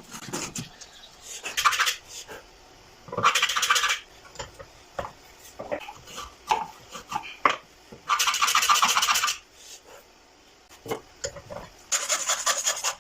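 A hand tool scraping along wood in four separate strokes, each half a second to over a second long, with small knocks and clicks of handling between them.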